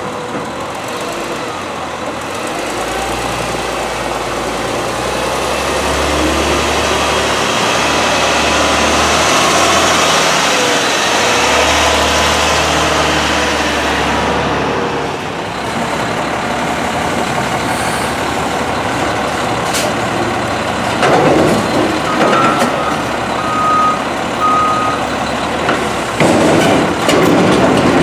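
A front-loader garbage truck's diesel engine revving up and holding high for several seconds, then dropping back about halfway through. In the last few seconds a back-up alarm beeps a few times among louder sudden mechanical noises.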